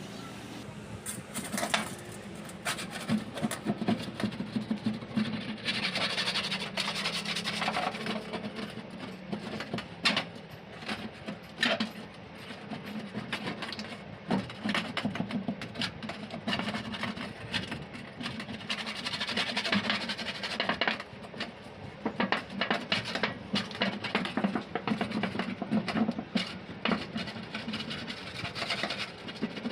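Irregular clicks, knocks and scraping of hand tools and metal parts being handled, over a low steady hum.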